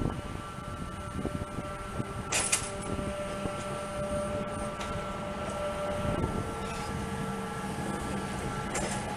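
Stadler GTW electric rack railcar rolling slowly past: a low rumble from the running gear under a steady electric drive whine that drops in pitch about six seconds in, with a short burst of hiss about two and a half seconds in.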